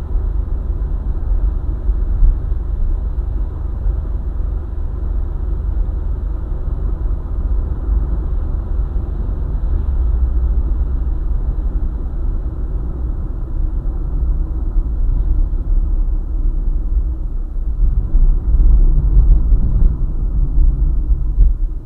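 A car driving along a highway: steady low road and engine rumble, swelling a little near the end.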